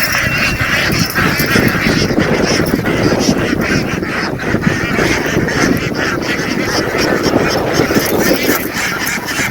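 A large flock of farmed ducks quacking all at once, a continuous overlapping chorus of calls.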